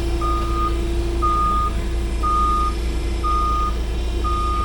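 Vehicle backup alarm beeping steadily, about once a second, over a low engine rumble.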